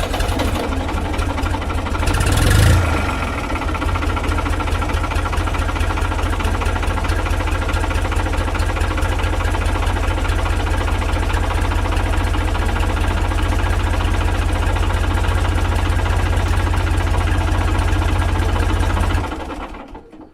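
Tractor engine idling with a steady, even knocking beat. It swells briefly about two to three seconds in, then runs steadily and fades out near the end.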